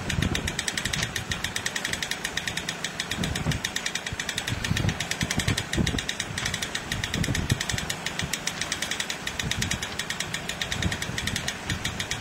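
Car engine running with a fast, even ticking clatter, with gusts of wind rumbling on the microphone.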